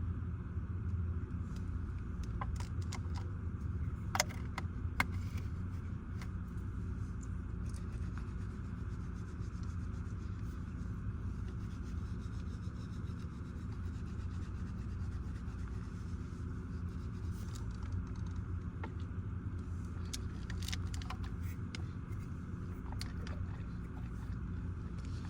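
A steady low hum, with scattered light clicks and scrapes of small things being handled, a few sharper clicks about four to five seconds in and again near twenty seconds in.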